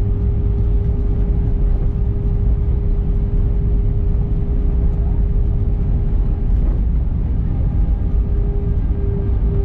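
Airbus A319 jet engines running: a steady deep rumble under a constant whine, unchanging throughout.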